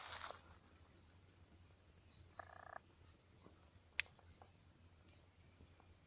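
Frogs calling faintly, with a short buzzy croak about two and a half seconds in and faint high drawn-out notes repeating about once a second. A single sharp crackle from the bonfire comes about four seconds in.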